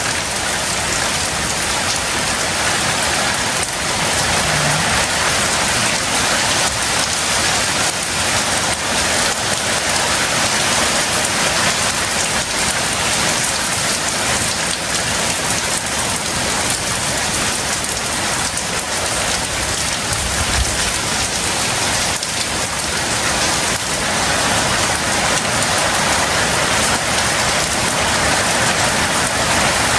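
Heavy tropical rain pouring steadily on surfaces, a dense, even hiss that holds at the same strength throughout.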